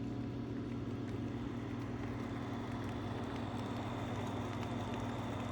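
Steady low machine hum with a constant drone above it, unchanging throughout, with a few faint ticks.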